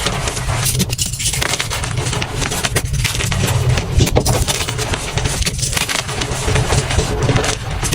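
Soft blue-dyed chalk being crushed and crumbled, a dense crunching crackle with brief pauses about one, three and five and a half seconds in.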